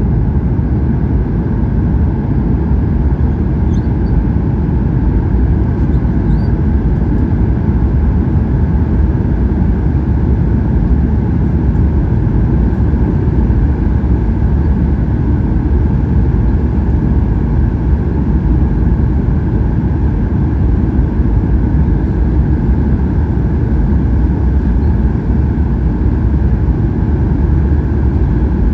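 Cabin noise of a Boeing 737-800 in flight: a steady rush of airflow over the fuselage mixed with the drone of its CFM56 turbofan engines, heaviest in the deep low end and unchanging throughout.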